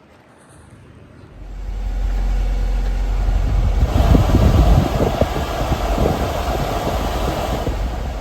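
A 1997 Honda Acty mini truck's small three-cylinder engine starting about a second in and running steadily, briefly louder around the middle.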